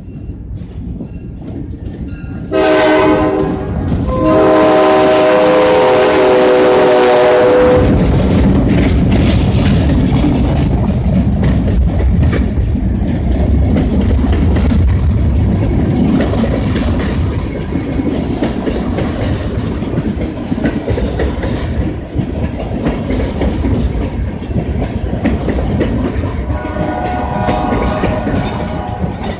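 Western New York & Pennsylvania Railroad train horn sounding a short blast, then a longer one. The train then rumbles past with the clickety-clack of wheels over rail joints, and the horn sounds briefly again near the end.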